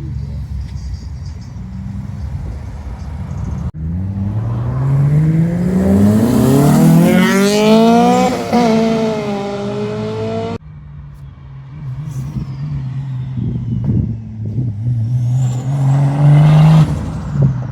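Modified car engines accelerating with loud exhausts. One engine's pitch climbs steeply as it revs hard, then drops off sharply. Otherwise the engines hold a steady rumbling note, with a few sharp cracks and a high whistle near the end.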